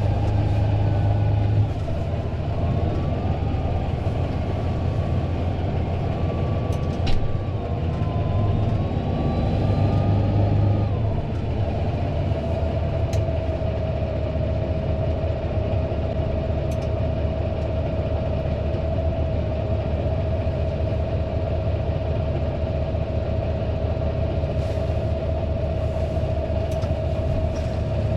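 Fendt 936 Vario tractor's six-cylinder diesel running steadily, with a whine above the engine that wavers in pitch for about the first ten seconds, then settles on one steady note. A sharp click about seven seconds in.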